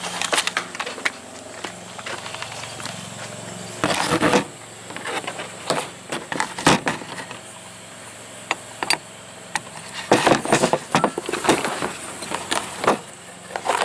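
Irregular knocks, clatters and rustling of things being moved and handled while searching a cluttered shop, loudest about four seconds in, near seven seconds, and in a cluster about ten seconds in.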